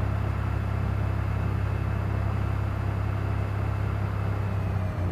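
Cessna 210's six-cylinder piston engine and propeller running steadily during the pre-takeoff run-up, a deep even drone. The note changes just before the end.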